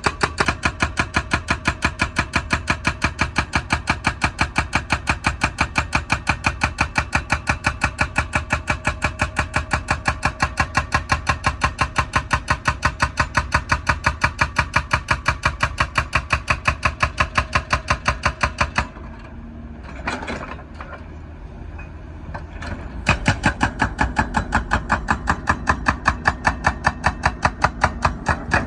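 Hydraulic breaker hammer on a wheeled excavator pounding asphalt, a rapid, even stream of hammer blows. It stops about nineteen seconds in, leaving the excavator's diesel engine running with a few knocks, and starts hammering again some four seconds later.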